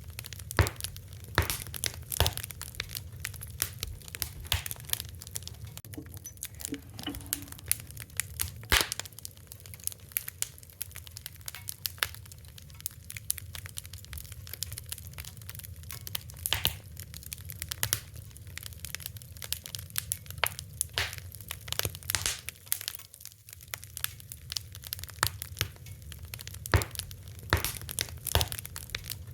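Wood fire burning with irregular sharp crackles and pops over a low steady rumble.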